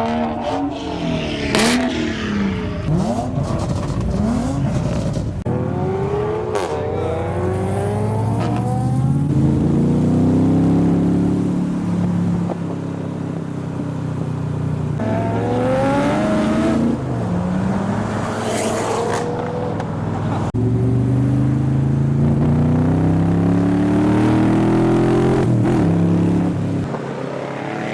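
Car engines revving and running, their pitch rising and falling several times as cars pull away or are blipped.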